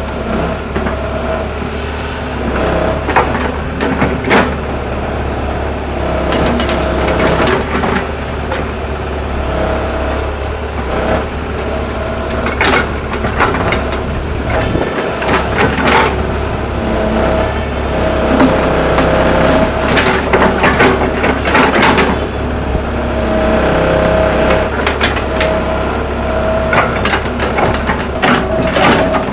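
Hitachi excavator's diesel engine running steadily under a constant hydraulic whine, with frequent knocks and scrapes as the bucket digs soil.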